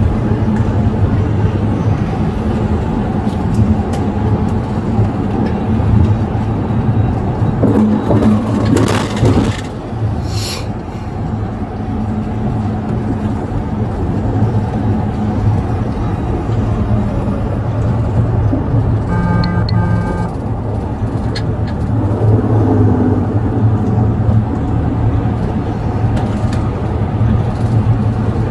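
Police motorcycle engine running steadily at cruising speed, with wind noise over the rider's body-worn microphone.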